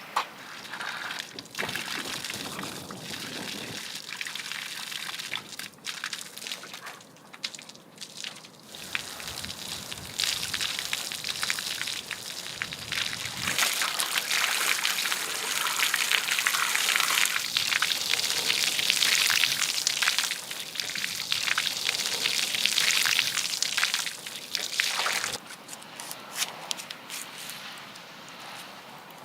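Water pouring and trickling on and off, heaviest in a long stretch through the middle.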